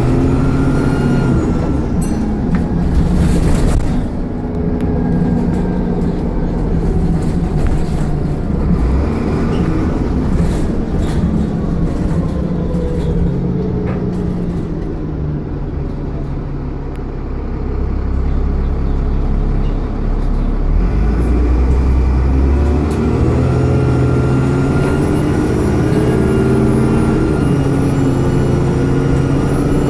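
Dennis Trident 2 double-decker bus engine pulling and changing gear. It drops back to a low idle for a few seconds around the middle, then pulls away again, with a high turbo whine rising over the engine near the end.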